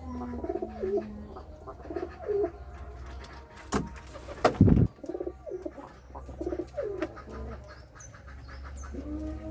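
Domestic pigeons cooing repeatedly, with two sharp knocks a little before the middle of the clip.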